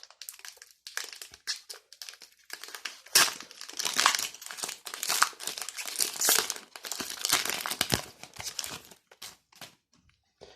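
Foil Pokémon booster pack wrapper crinkling as it is torn open and handled: a dense run of crackles, loudest about three to four seconds in, thinning out near the end.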